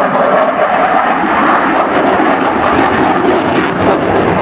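Engine noise of a fixed-wing aircraft in flight, loud and steady.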